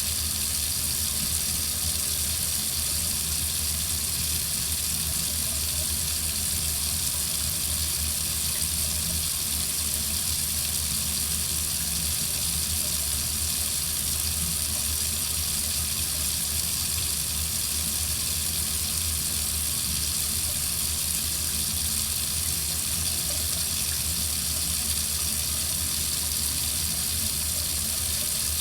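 Water running steadily from a faucet into a sink, an even hiss with a low rumble underneath.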